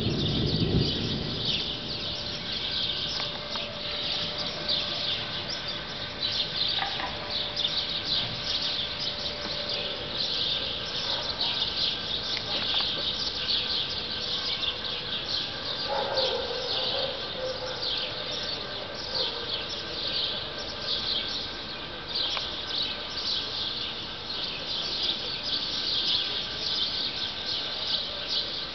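Many small birds chirping, with short high calls overlapping without a break. A low rumble dies away in the first second.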